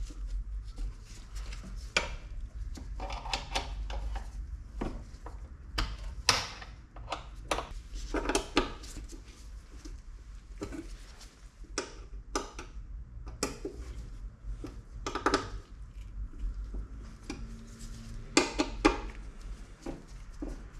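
Metal and plastic parts of a car window regulator mechanism being handled on a bench: scattered clicks, knocks and rattles, some ringing briefly, over a steady low hum.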